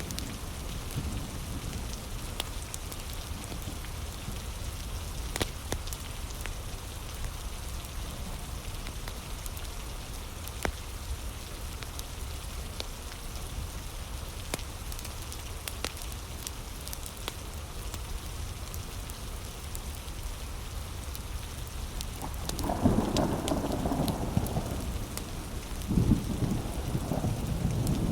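Steady heavy rain with scattered sharp pops and crackles from a wood fire. About three-quarters of the way through a low rumble rises, and it swells again near the end.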